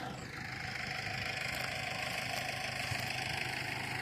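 Mower engine idling steadily.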